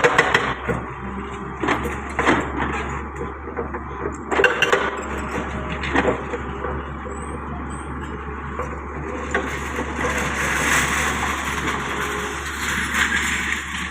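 Hyundai wheeled excavator working: a steady machine rumble with a few scattered sharp knocks, and a rougher noisy stretch about ten seconds in.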